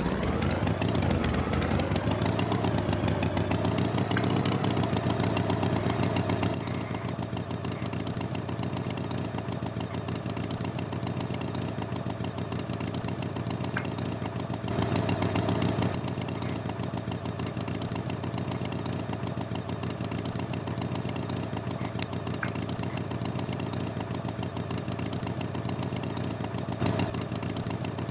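Tractor engine running: it revs up over the first couple of seconds, runs louder for about six seconds, then settles to a steady idle, with brief surges about halfway through and near the end.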